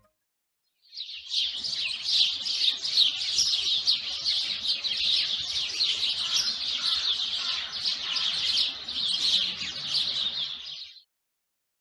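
Small songbirds chirping in rapid, overlapping calls. The chirping starts about a second in, goes on steadily, and cuts off shortly before the end.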